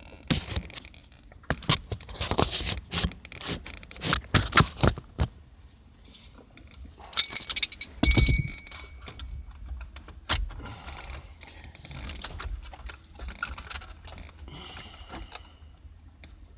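Plastic clicking and rattling from electrical connectors being worked loose behind a car's instrument cluster. Two sharp metallic jingles come about seven and eight seconds in, followed by a few faint clicks.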